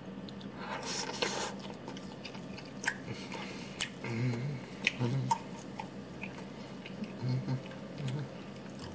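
A man chewing a mouthful of pancake and scrambled egg, with scattered wet mouth smacks and a few short closed-mouth hums.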